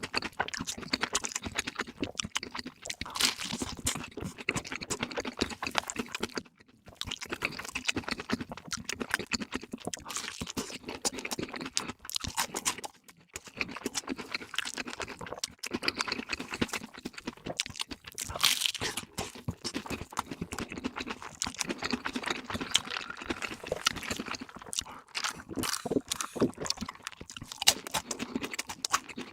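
Close-miked eating: crunching and chewing of crispy fast food in quick, irregular crackles, pausing briefly twice.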